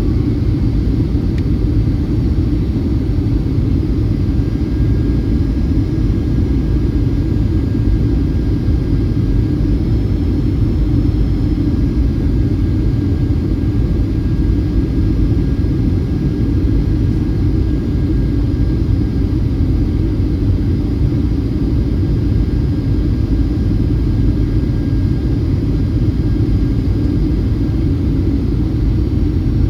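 Steady low rumble of airflow and Pratt & Whitney PW2043 turbofan engines inside a Boeing 757-300's cabin in flight on approach, with a faint steady whine above it.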